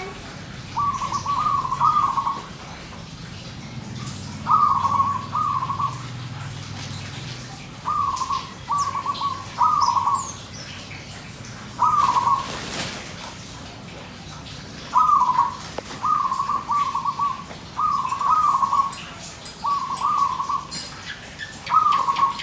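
Zebra dove (perkutut) cooing its song, short rolling phrases repeated in groups of two or three with pauses between them.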